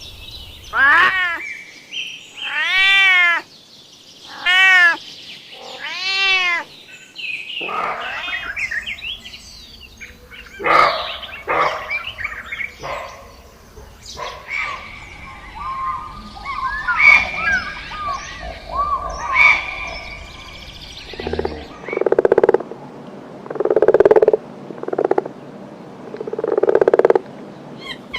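A string of animal calls. First come four drawn-out pitched calls that rise and fall, then a busy stretch of short chirps and squeaks, and near the end a run of short, lower calls repeated about every second and a half.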